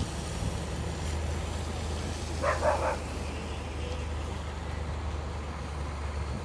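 A heavy vehicle engine running steadily with a low rumble. About two and a half seconds in there is one short, sharp call, like a dog's bark.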